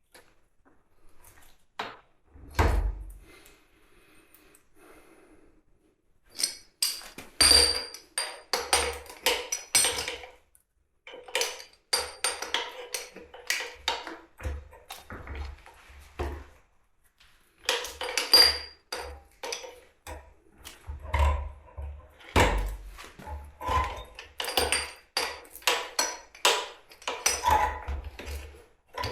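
Metal tools and small metal engine parts clinking and knocking on a hard surface, in irregular clusters of taps and clatter with short pauses between them.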